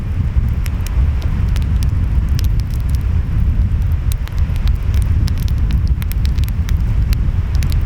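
Wood fire crackling, with many sharp pops scattered throughout, over a steady low rumble of ocean waves and wind.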